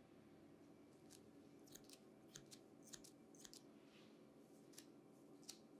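Barber's scissors snipping hair: faint, crisp snips at an irregular pace, some single and some in quick pairs or threes.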